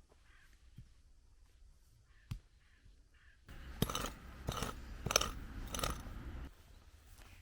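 A few faint clicks, then from about halfway through a run of about five sharp metallic clinks, roughly one every half second, that stops suddenly.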